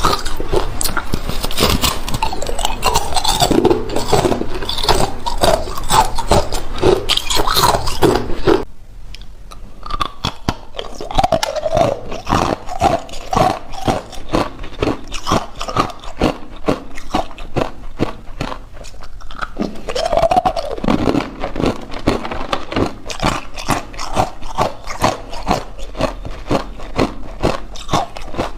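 Hard, clear ice cubes being bitten and chewed: dense crunching for roughly the first eight seconds, then a run of sharper, separate crunches.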